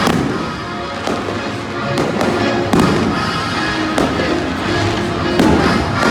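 Fireworks bursting in quick succession, about six sharp bangs roughly a second apart, over loud music with a steady beat.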